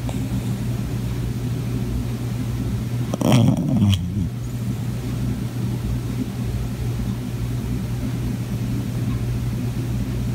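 A sleeping chocolate cockapoo gives one loud rasping snore about three seconds in, falling in pitch as it ends, over a steady low hum.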